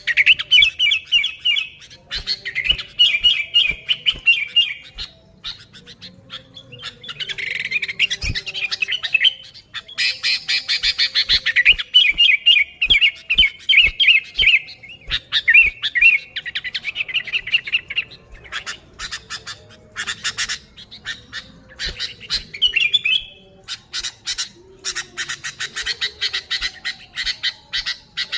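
Sooty-headed bulbul calling busily: quick chattering runs of notes in phrases a second or two long, with harsh clicking notes between the phrases.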